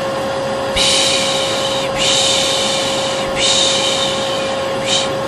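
Vacuum cleaner running with a steady hum while a person's voice makes long 'shh' shushing sounds over it, three in a row about a second and a bit each, then a short one near the end. A soothing white-noise mix for settling a baby.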